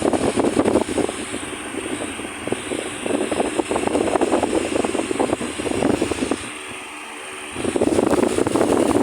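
Tron 200 W pedestal fan with a Venti-Delta propeller running, its airflow buffeting the microphone in irregular gusts. The rush eases for about a second two-thirds of the way through, then returns.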